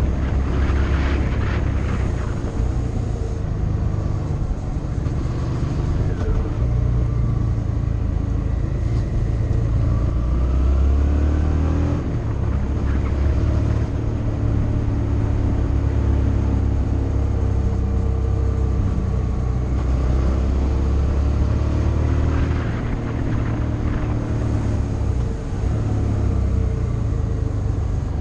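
Motorcycle engine running while riding, its pitch rising and falling with changes of throttle and gear.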